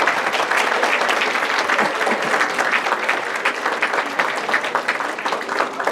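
A large audience applauding after a musical performance: dense clapping that starts just after the music stops and thins out into scattered claps near the end.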